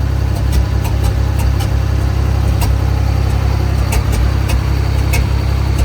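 MerCruiser 5.7L V8 marine engine running steadily just after it has fired up, with a few irregular sharp clicks over the low engine note.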